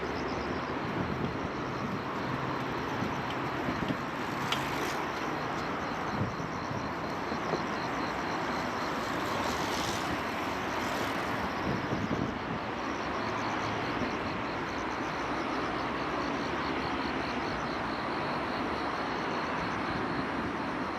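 Steady hum of city traffic by the riverside at night, with a faint, fast, high-pitched pulsing running through it.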